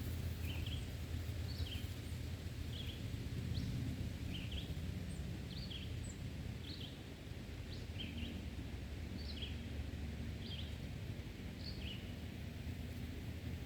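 A small bird chirping over and over, short high notes about one to two a second, over a steady low rumble of background noise.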